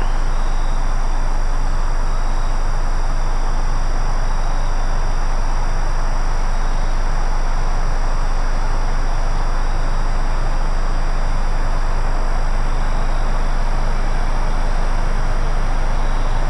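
A SEPTA Silver Liner IV electric commuter train approaching on the track: a steady noise over a low hum, holding the same level throughout.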